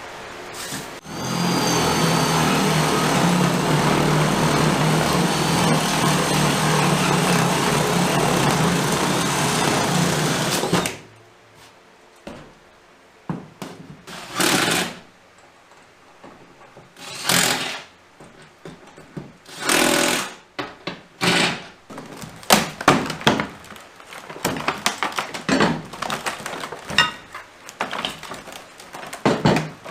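A power tool runs steadily for about ten seconds and then stops. Several short bursts of under a second follow, then a run of quick clicks and knocks.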